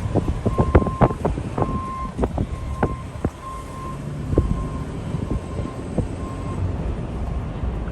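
A vehicle's electronic warning beeps repeating at one steady pitch, roughly twice a second, stopping about two-thirds of the way through, over a steady low vehicle rumble. Sharp clicks and knocks come in the first few seconds.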